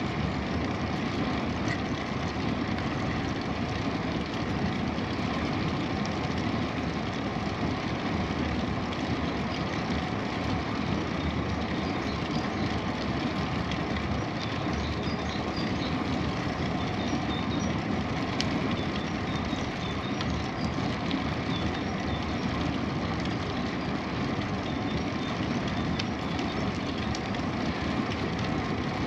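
Steady rumble of wind and tyre noise from a bicycle ride on a paved path, even throughout, with a few faint high chirps in the middle.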